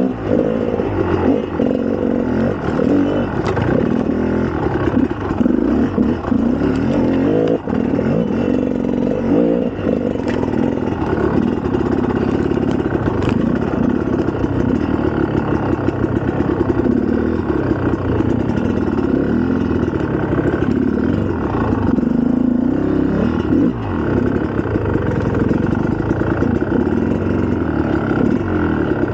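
2004 GasGas EC300's single-cylinder two-stroke engine running while ridden, the revs rising and falling over and over, with a few brief knocks.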